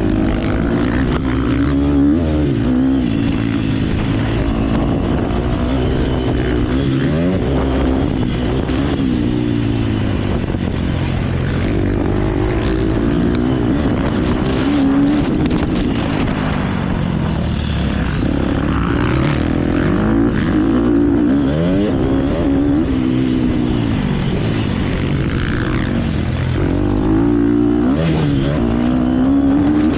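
KTM motocross bike engine revving up and down again and again as the rider works the throttle and shifts around the track, the pitch climbing and dropping every couple of seconds under a rush of wind and track noise.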